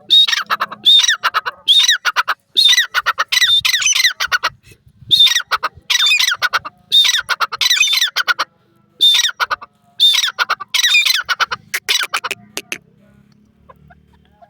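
A francolin (teetar) calling loudly in repeated harsh phrases. Each phrase is a strong ringing note followed by a fast rattle of clipped notes, about one phrase a second with short pauses between bouts. The calling stops about two seconds before the end.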